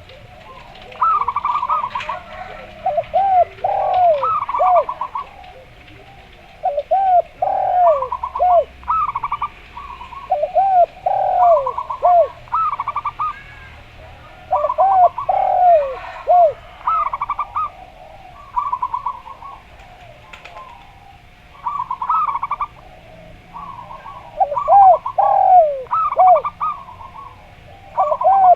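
A zebra dove (perkutut) and a derkuku dove calling over and over in repeated bouts. Low, arched coos alternate and overlap with rapid stuttering runs of higher coos, with short pauses between bouts and faint chirps of other birds behind.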